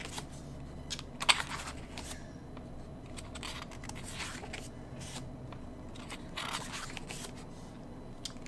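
Paper and card being handled while an album's contents are looked through: scattered rustles and crinkles, with a sharp click about a second in.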